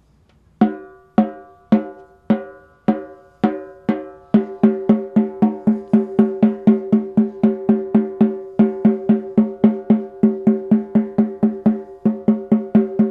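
Aluminium-shelled Ludwig Acrolite snare drum struck steadily with a mallet while it is being tuned. Each stroke rings with a clear pitch. The strokes come about two a second at first, then quicken to about three or four a second some four seconds in.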